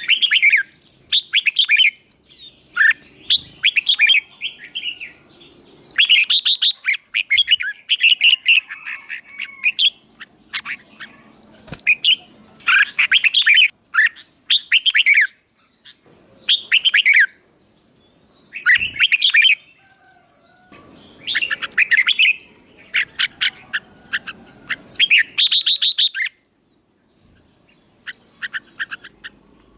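Songbird singing in repeated bursts of quick, sweeping chirps and whistles with short pauses between phrases, briefly stopping near the end.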